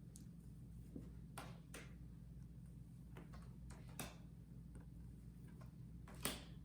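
Near silence: a steady low room hum with a few faint, short clicks and taps scattered through it.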